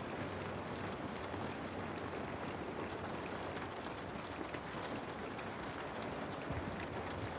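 Steady rain on a window: a constant, even hiss of rainfall with faint scattered drop ticks.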